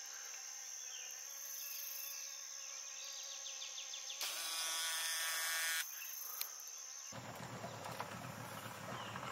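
A steady chorus of rainforest insects buzzing and droning, with honeybees among them, over a high, even whine. About four seconds in, a louder buzz lasts a second and a half. After about seven seconds the sound gives way to a duller, broader outdoor hiss.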